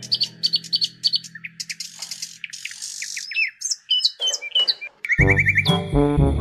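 Birds chirping, many short, quick falling whistles, over a held music chord that fades out; music starts again about five seconds in.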